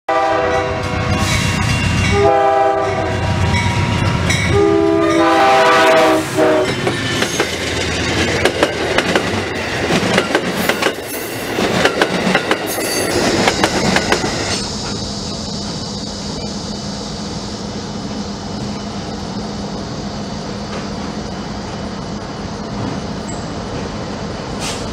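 An Amtrak passenger train's multi-tone horn sounds three blasts as the train approaches, then its cars pass close by with wheels clacking and rattling over the rails. About fourteen seconds in, this gives way abruptly to a steady low hum from a rail yard of standing diesel locomotives.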